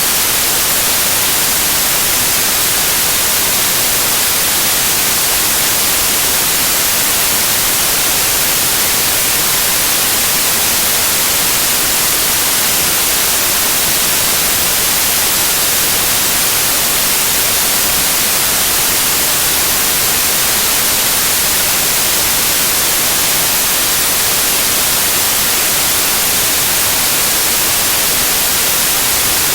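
Loud, steady white noise: an even hiss with no changes.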